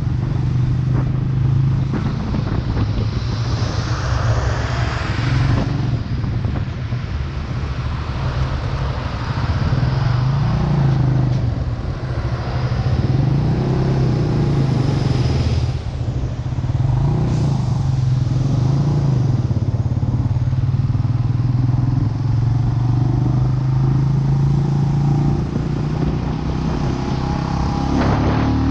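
Vento Lucky 7 motorcycle engine running steadily while riding, heard from the bike's onboard camera. The engine note dips briefly and picks up again a few times.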